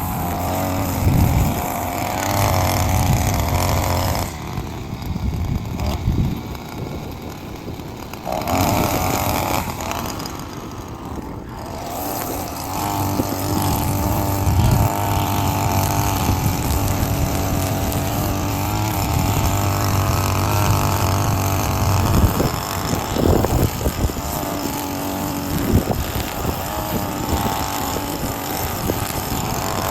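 Petrol lawn mower engine running as it cuts grass, steady but with the level dipping for a few seconds twice near the start.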